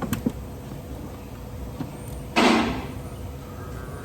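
Two light clicks, then a short scraping rush about two and a half seconds in that fades quickly: a part on the engine's intake being worked loose and disconnected by hand.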